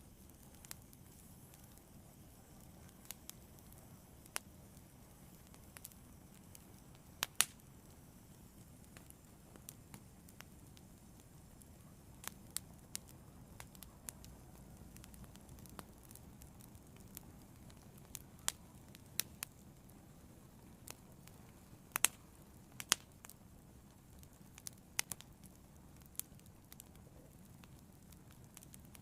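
Fire burning, crackling with irregular sharp pops over a low steady rush, two louder pops about a third of the way in and three-quarters of the way through.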